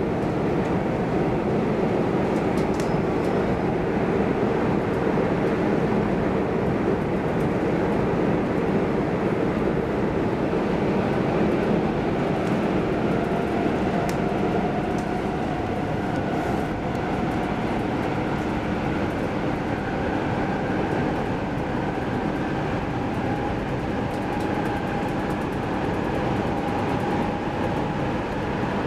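X10 electric commuter train running at speed, heard from inside the passenger car: a steady rumble of wheels on rail. From about halfway a faint whine rises slowly.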